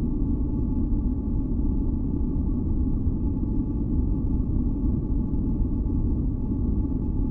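Steady, deep masking noise with its weight in the bass, carrying a few faint held tones higher up, unchanging throughout: a continuous ambient noise track for sleep and tinnitus masking.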